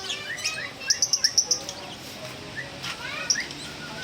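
Several caged birds chirping and calling, with a quick run of about six high chirps about a second in and short falling calls around it.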